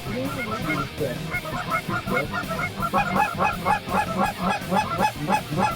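A flock of Canada geese honking, many short calls overlapping; they grow denser and louder about three seconds in.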